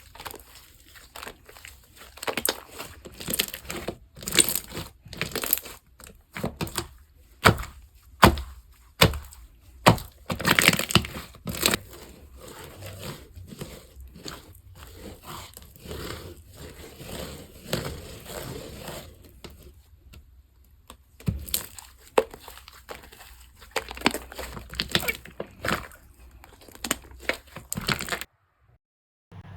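Slime being squeezed, poked and stretched by hand, giving dense crackling clicks and pops. The sound cuts out briefly near the end.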